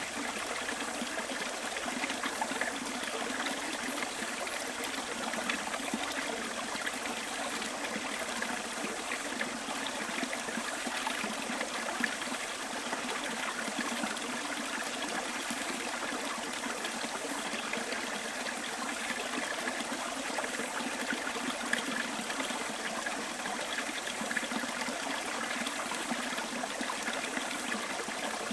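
A bush stream flowing and trickling steadily, an even rush of water with no breaks.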